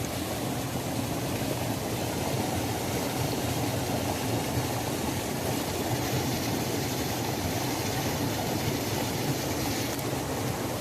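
Waterfall: falling water rushing in a steady, deep, unbroken sound.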